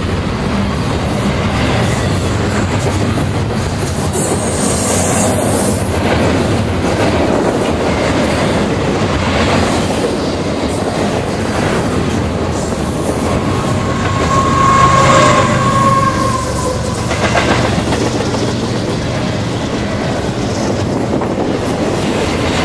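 Double-stack intermodal container train rolling past, its steel wheels running steadily on the rails. About fourteen seconds in, a high-pitched wheel squeal rings out for a couple of seconds, the loudest moment.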